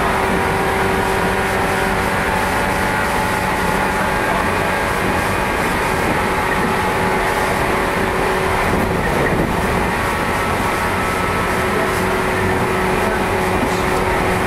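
Running sound of a JR 115 series electric train heard aboard: a steady rumble of wheels on track with several steady motor and gear tones, the train travelling at an even speed. A brief extra rumble comes about nine seconds in.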